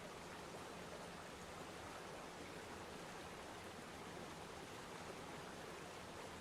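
Waterfall: a steady, even rush of falling water, faint and unchanging.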